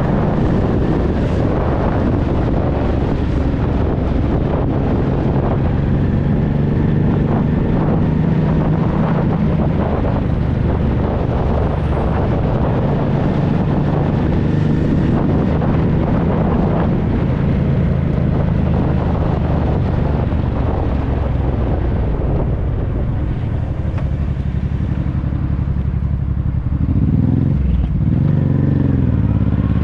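Honda NT650V Deauville's V-twin engine running through an aftermarket Dominator exhaust, a steady engine note with some wind noise. It eases off a little past the two-thirds mark, then the revs dip and climb again near the end.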